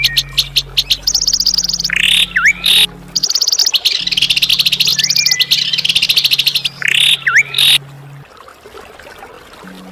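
A songbird singing fast, high trills in phrases of a few seconds, broken twice by sharp swooping whistled notes. A steady low drone runs underneath and drops out about eight seconds in.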